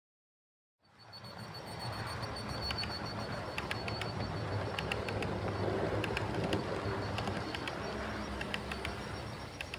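Model electric train (LS Models TEE RAe trainset) running along the track: a steady low motor hum with a thin high whine, and short clicks, often in pairs, as the wheels cross rail joints. It starts suddenly about a second in.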